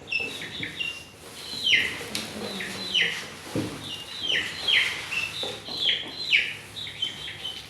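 Small birds chirping steadily: a busy run of short, high chirps, each falling in pitch, repeated several times a second.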